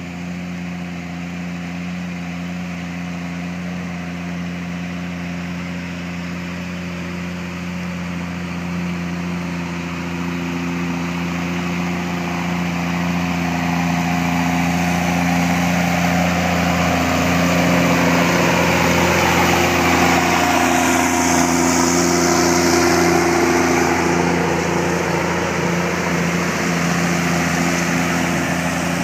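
Heavy diesel engines of a tractor towing a road-train truck through mud, running steadily under load. The drone grows louder through the first two-thirds, is loudest a little past the middle, and eases slightly near the end.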